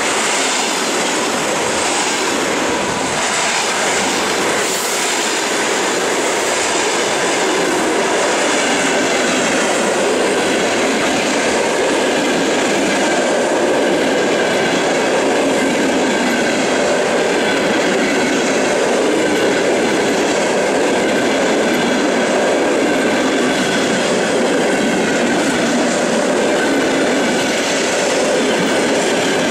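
Passenger coaches rolling past close by: a loud, steady rush of steel wheels running on the rails, with faint high ringing notes running through it.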